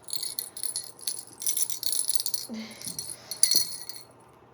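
A kitten batting a small jingle-bell cat toy, the bell jingling in a string of quick bursts that stop a little before four seconds in.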